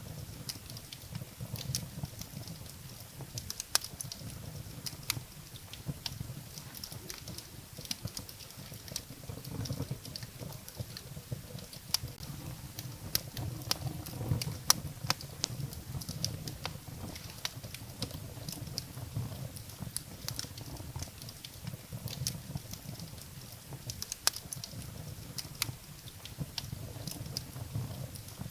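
Wood fire in a fireplace crackling: irregular sharp pops and snaps of burning firewood over a low steady rumble.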